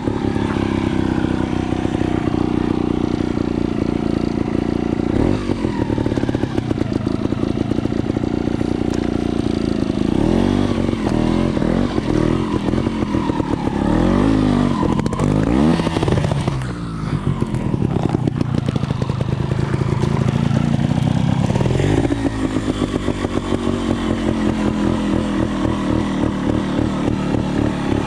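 Gas Gas 280 trials motorcycle's two-stroke single-cylinder engine running, with the revs rising and falling repeatedly through the middle as the throttle is worked, then settling to an even, pulsing idle for the last few seconds.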